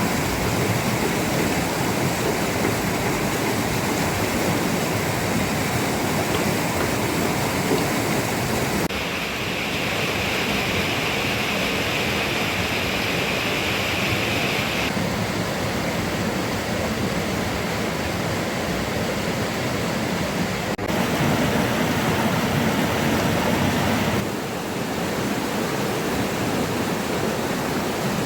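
Steady rushing water, a dense even wash of noise with no rhythm. Its tone changes abruptly several times, about 9, 15, 21 and 24 seconds in, with a brighter hiss between about 9 and 15 seconds.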